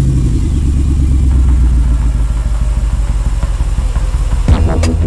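Mercedes-AMG G-Class engine idling with a steady low rumble. Electronic music with a heavy beat comes in about four and a half seconds in.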